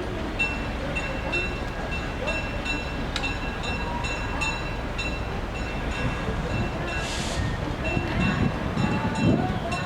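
A train running by with a steady rumble. A short high-pitched ringing tick repeats about three times a second, and a lower rumbling grows louder near the end.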